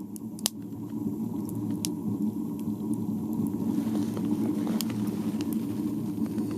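Wood fire burning in a small tent stove: scattered sharp crackles and pops over a steady low rumble.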